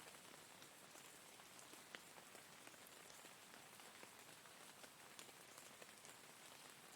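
Soft, steady rain: an even hiss of falling rain with individual drops ticking here and there.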